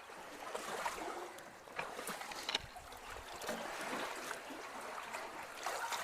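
Creek water flowing and trickling through a culvert that has just been cleared of a debris clog, with a few light knocks and splashes about a second, two seconds and two and a half seconds in.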